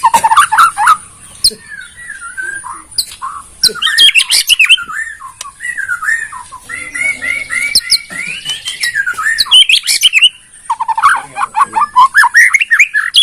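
White-rumped shama singing loud, varied phrases of whistles and trills, with a run of evenly repeated notes midway and a fast rattling trill near the end, over a steady high-pitched hiss.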